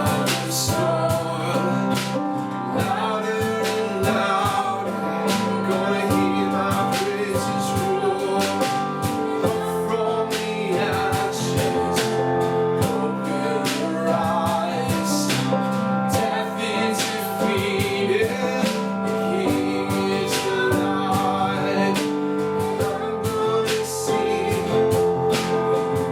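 Gospel-style praise and worship song: singing over instrumental backing with a steady beat.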